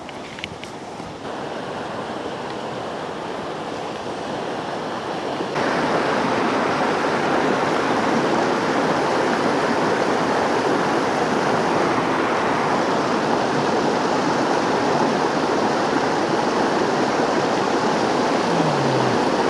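Mountain creek water rushing and splashing over rocks, a steady rush that grows louder in two steps, about a second in and about five seconds in.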